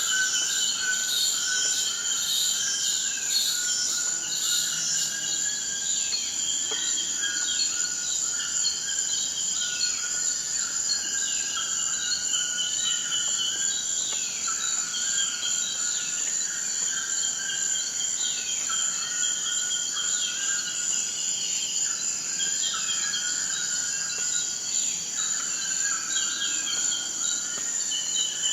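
Forest ambience: a steady high-pitched insect drone, like crickets, under several birds calling over and over with short, partly falling notes.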